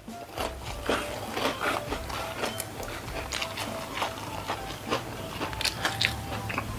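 Close-miked chewing of crisp white crackers and sausage with rice: irregular crunches and wet mouth clicks, several each second.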